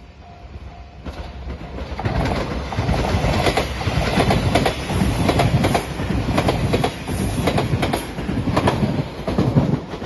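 A JR Shikoku Shiokaze limited express electric train passing the level crossing at speed. Its wheels clack repeatedly over the rail joints; the noise builds from about two seconds in and stays loud until near the end. At the start the crossing bell is ringing, a repeating tone about twice a second, before the train drowns it out.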